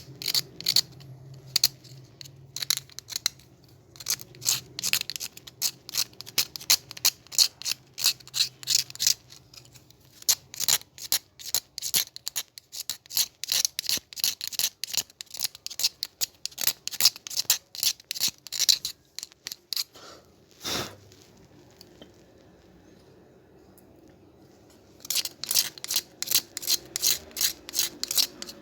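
Quick, irregular sharp snips and clicks of a hand tool working on the hair dryer's parts, a few a second, pausing for several seconds and starting again near the end.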